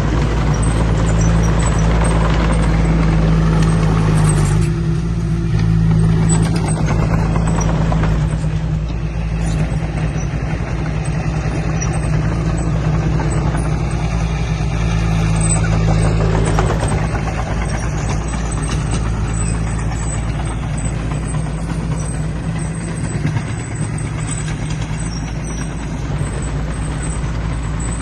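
Diesel engine of heavy earthmoving machinery, a dump truck or bulldozer, running steadily under work with a low, even drone.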